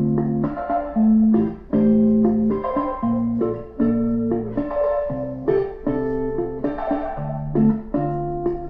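Instrumental music with held chords, played from a phone over Bluetooth through a Hayonik ambient sound kit's amplifier and speakers.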